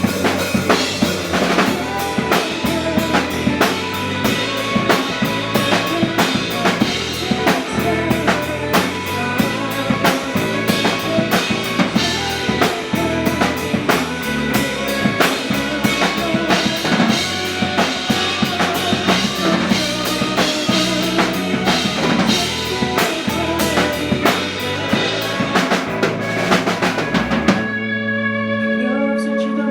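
Rock band playing live without vocals: a busy drum kit driving steadily under bass and guitars. About two seconds before the end the drums stop, leaving the guitar and bass tones ringing.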